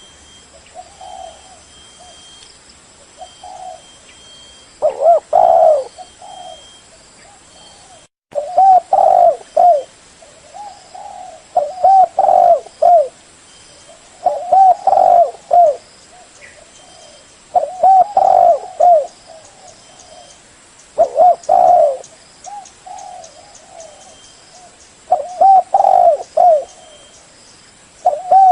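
Spotted dove (chim cu gáy) cooing, in repeated loud multi-note phrases about every three seconds, with softer coos in between. The sound cuts out for a moment about eight seconds in.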